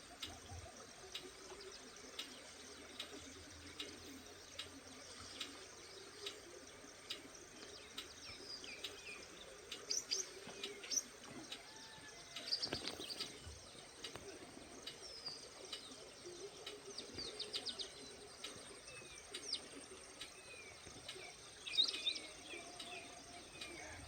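White wagtail calling: scattered sharp, high chirps, some falling in pitch, coming in short clusters with the loudest about halfway through and again near the end. Under them runs a faint, regular ticking a little faster than once a second.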